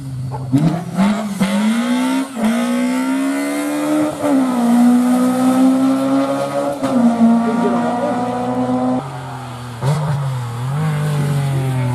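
Rally car engine accelerating hard through the gears: the pitch climbs and drops sharply at each of three upshifts. About nine seconds in the driver lifts off, followed by a short blip of the throttle and the engine running lower.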